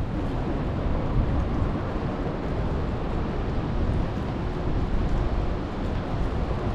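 Wind buffeting the camera microphone, a steady low rumble with a hiss above it.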